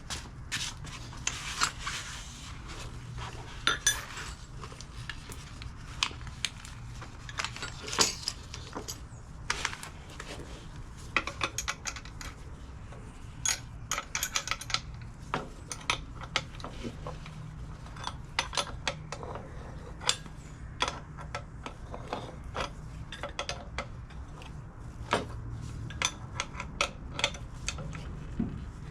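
Irregular metallic clinks and clanks of hand tools and steel parts being handled, over a steady low hum.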